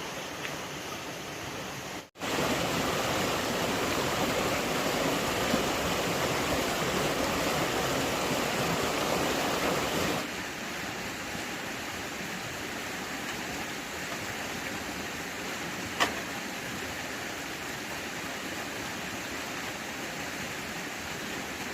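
Steady rushing of running water, like a stream. It breaks off for an instant about two seconds in, runs louder for the next eight seconds, then settles a little quieter. A single sharp click comes near the middle of the quieter stretch.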